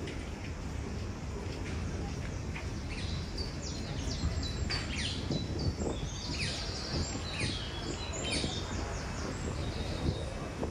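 Small birds chirping and twittering, with many short high calls and quick falling notes that thicken in the middle, over a steady low outdoor rumble.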